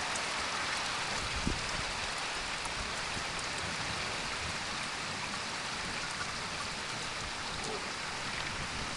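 Steady rain falling in a thunderstorm, an even hiss with a few faint ticks of drops.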